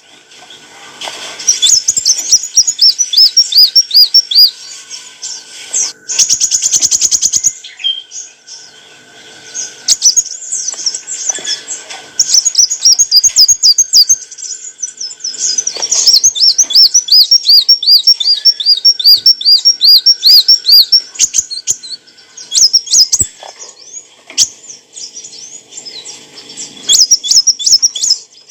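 Sunbird (the bird Indonesian keepers call kolibri wulung) singing high, fast chirps: quick runs of rising-and-falling notes, about five a second, in several bouts, with a short buzzy rattle about a third of the way in.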